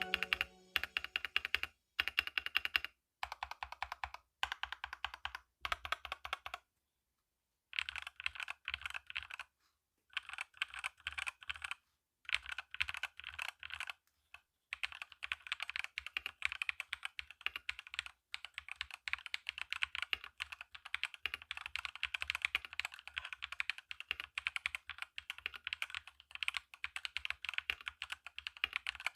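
LT84 wireless mechanical keyboard being typed on: rapid key clicks in bursts with short pauses between them, turning into steady continuous typing about halfway through.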